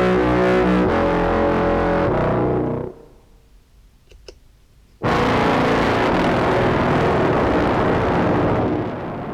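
Contrabass clarinet played through an octave pedal set one and two octaves down into a fuzz pedal, with reverb. A sustained, buzzing fuzzed note stops about three seconds in and leaves a short pause with a couple of faint clicks. About two seconds later a denser, noisier fuzzed tone comes in, like a big vibrating plate, and it drops in level near the end.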